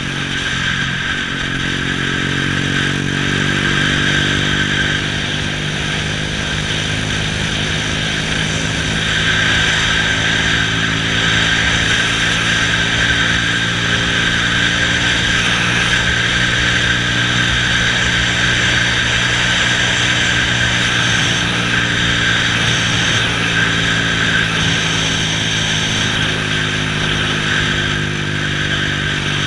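Honda Astrea underbone motorcycle's single-cylinder four-stroke engine running at a steady cruise, its pitch holding nearly level with only slight rises and falls.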